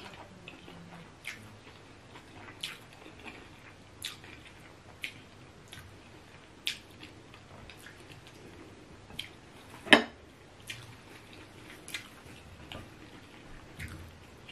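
Mouth sounds of eating eba and egusi soup by hand: scattered wet clicks and smacks from chewing and finger-licking, with one louder sharp click about ten seconds in.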